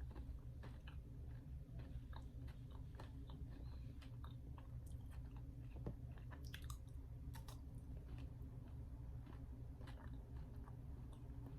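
A person chewing a bite of a Fruity Pebbles cereal candy bar in white chocolate: faint, irregular small crunches over a low steady hum.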